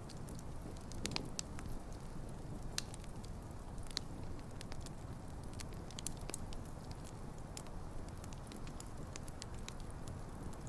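Wood campfire burning, a steady low rush of flames with frequent sharp, irregular crackles and pops from the burning logs.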